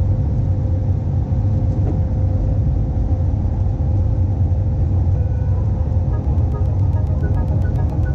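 Airbus A320 cabin noise: a steady low rumble of engines and airflow with a constant hum. Background music fades in near the end.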